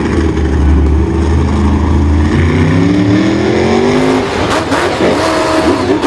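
A vehicle engine running steadily, then revving up with a rising pitch about two seconds in, followed by a few sharp knocks and clatter near the end.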